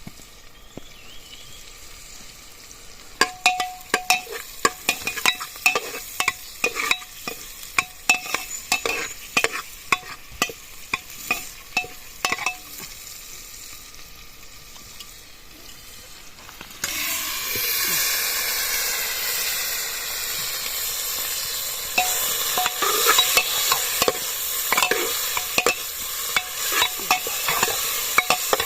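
A metal spoon scraping and stirring food in a pan, with a faint metallic ring on the strokes. About 17 seconds in, a loud steady frying sizzle starts suddenly and the scraping goes on over it.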